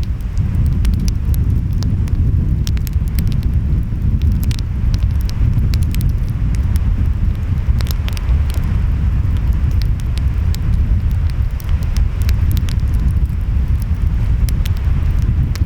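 Wood fire crackling, with sharp pops scattered irregularly throughout, over a steady low rumble of ocean waves and wind.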